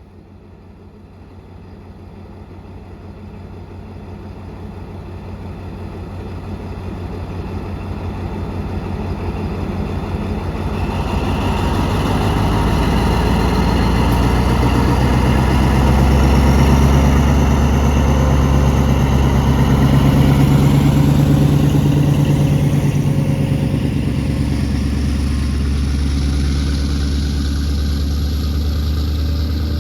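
Train with a diesel locomotive approaching after sounding its horn: the engine's low running sound builds steadily louder over about fifteen seconds, then stays loud as the train draws close and passes.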